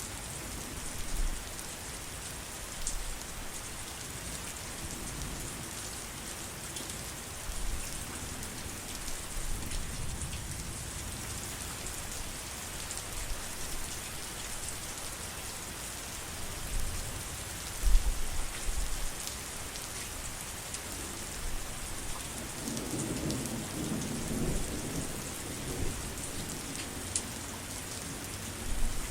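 Heavy rain falling steadily, with low rumbles of distant thunder rising and fading several times; the longest rumble comes about three-quarters of the way through.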